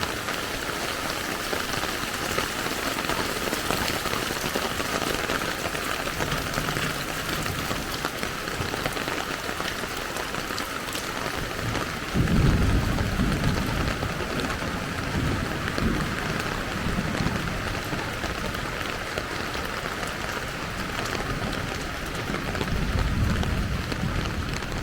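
Steady rain falling, an even hiss throughout. About halfway a deep rumble starts suddenly and swells and fades for several seconds, and another builds near the end.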